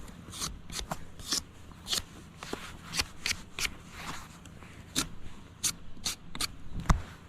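Knife scraping bark off a wooden stick, a string of short, irregular scraping strokes. A sharp knock near the end.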